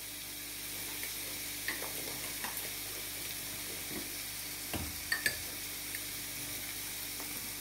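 Thick tomato and onion masala frying in oil in a kadai: a steady sizzle with a few scattered soft pops and clicks.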